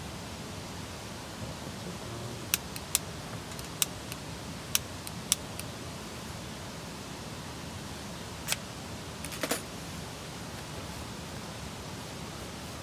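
A scattered series of sharp light clicks and taps, as of camp cooking gear being handled, over a steady background hiss.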